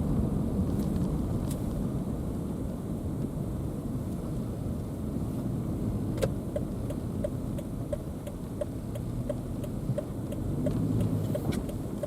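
Car driving along the road with steady low road and engine rumble. From about halfway through, a regular light ticking comes in at about two ticks a second.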